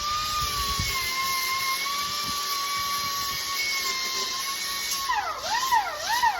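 Grinder running with a steady high whine while grinding freshly welded seams flush. About five seconds in, its pitch starts dipping and recovering several times in quick succession.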